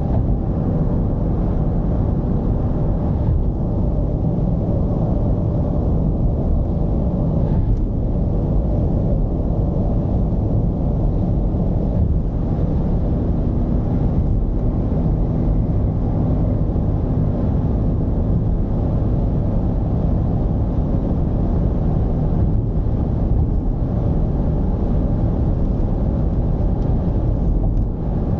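Mercedes-Benz V220's diesel engine and road noise while the van drives along: a steady low rumble with no marked revving.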